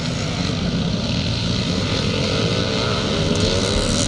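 Engines of classic motocross bikes racing, with one engine's pitch rising near the end as it revs up.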